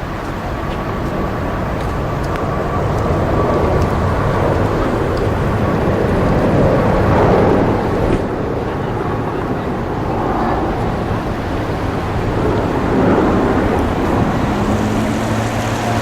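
Airbus A380 jet engines: loud, continuous engine noise that swells over the first few seconds and stays loud.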